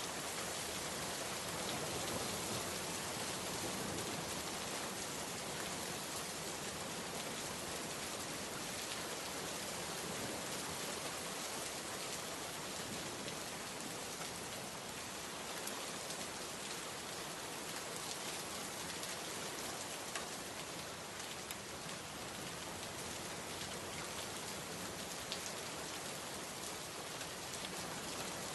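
Steady heavy rain falling, an even dense hiss with individual drops ticking on a surface.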